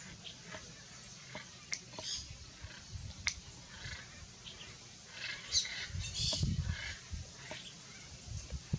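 Hyacinth macaw feeding on acuri palm nuts: a few sharp, isolated cracks, with short high chirps and calls from birds around it.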